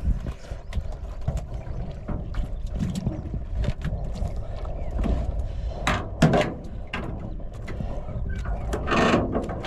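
Water splashing and knocks against a small boat's hull, with a few louder splashes about six seconds in and again near the end, under a steady low rumble.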